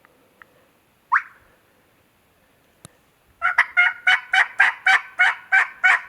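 Hand-operated turkey call yelping close by. One sharp rising note comes first, then a rhythmic run of about ten yelps, roughly four a second, made to draw out gobblers.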